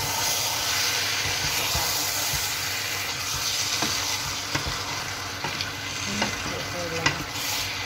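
Chicken wings and potato chunks sizzling in a hot pan while a wooden spatula stirs them, with a few sharp knocks and scrapes of the spatula against the pan.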